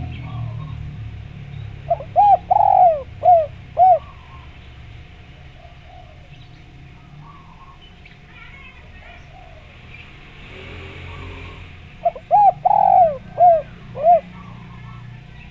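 Spotted dove (derkuku) cooing twice, about ten seconds apart. Each phrase is four or five notes, with the second note drawn out longest. A faint steady high tone and a low hum run underneath.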